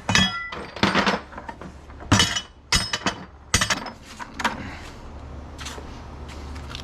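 Pieces of cast aluminium scrap clanking into a metal bucket for weighing: about seven knocks, the first ringing brightly, coming every half second to a second and growing fainter towards the end.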